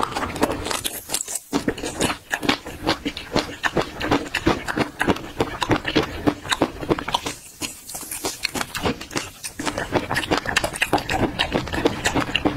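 Close-miked chewing of peanuts in chili-oil sauce: rapid wet crunches and mouth clicks, with short pauses about a second and a half in and again about halfway through.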